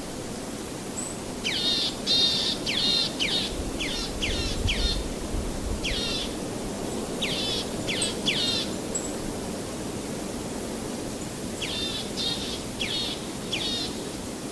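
A bird chirping in three runs of quick, falling notes over a steady background hiss.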